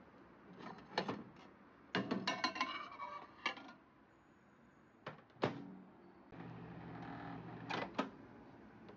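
Assorted household knocks, clicks and clatters, densest about two to three and a half seconds in, then a steady low hum for about a second and a half that ends in two sharp clicks.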